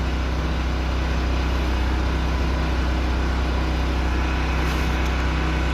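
Steady low machine hum with a few constant tones, unchanging throughout.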